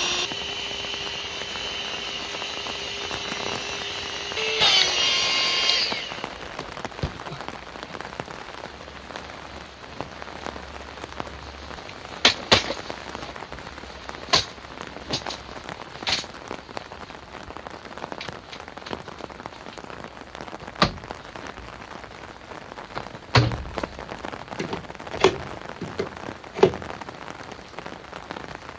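Steady rain with heavy drops hitting at irregular intervals, about a dozen sharp taps. For the first six seconds a small motor whines steadily, louder for its last second, then cuts off.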